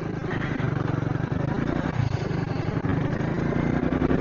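A 70cc motorcycle engine running steadily at low revs with an even, fast putter.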